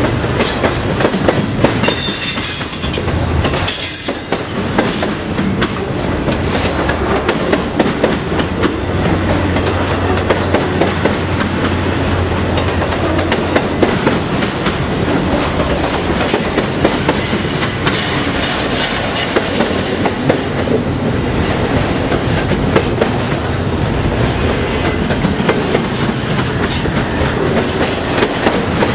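Double-stack intermodal container train passing close by: the steady rumble of the well cars' wheels on the rails with a constant run of clicks over rail joints. Brief high-pitched wheel squeals come about two and four seconds in.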